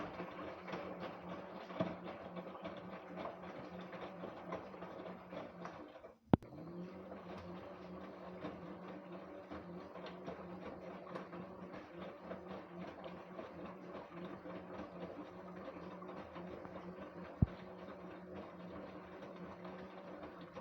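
LG WD-1054FB front-loading washing machine in its second rinse: a steady motor hum under the noise of the tumbling load, with a sharp click about six seconds in and another a few seconds before the end.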